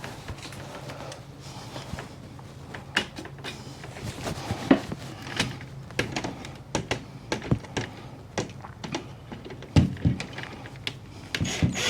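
Irregular clicking and light knocking from hand work on a metal storm door hinge and its screws, with a couple of firmer knocks about ten seconds in.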